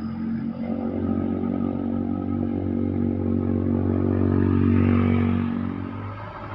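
A road vehicle's engine running steadily as it passes close by, growing louder to a peak about five seconds in, then fading.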